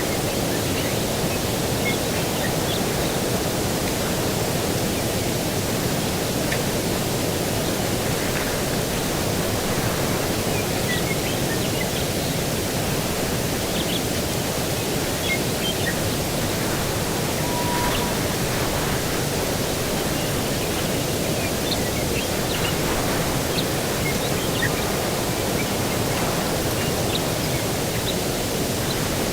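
Steady rushing of breeze and distant ocean surf, with faint scattered bird chirps over it.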